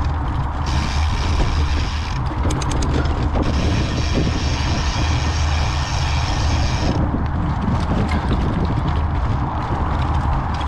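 Mountain bike riding on a dirt trail, with tyre and wind rumble throughout. The rear freehub ratchet buzzes while the bike coasts, from about a second in to about seven seconds in, broken by a short run of separate clicks between two and three seconds in.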